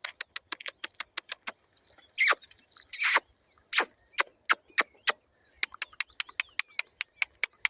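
Bicycle freewheel ticking rapidly and evenly while coasting, about six clicks a second, with three louder swishes about two, three and four seconds in.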